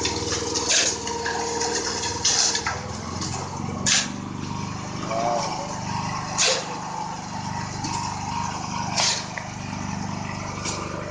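A truck's diesel engine runs steadily, with short sharp scraping or hissing noises every couple of seconds over it.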